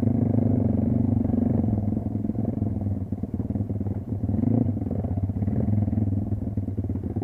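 Kayo dirt bike engine running at fairly steady revs, easing off briefly about three to four seconds in before picking up again.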